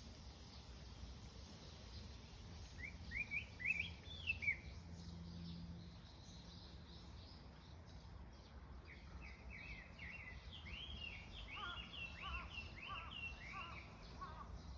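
Small birds chirping: a short burst of rising chirps about three seconds in, then a longer run of repeated arching notes through the second half, over a steady low background rumble.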